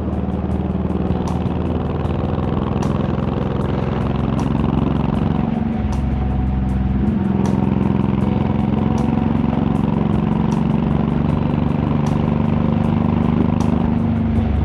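Honda VTX1800's big V-twin engine and exhaust running steadily while riding, with a brief change in the engine note about seven seconds in.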